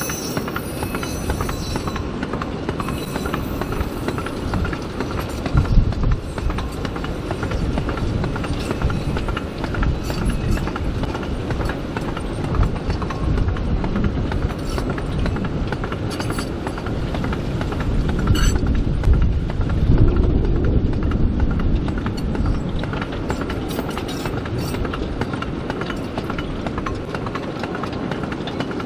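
Narrow-gauge sugar cane train running on 2ft track: a steady rumble with the wheels clacking over the rail joints, louder for a few seconds past the middle.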